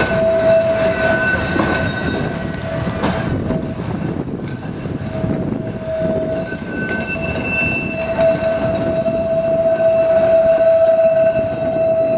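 A Blackpool tram running along its track, with a steady rumble and a sustained high tone that fades and returns several times, loudest near the end.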